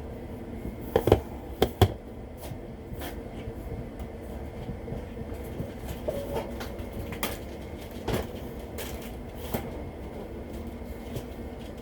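Kitchen rummaging: a few sharp knocks and clicks as containers and cupboard or fridge doors are handled, two loud pairs of them about a second in, then lighter scattered clicks, over a steady low hum.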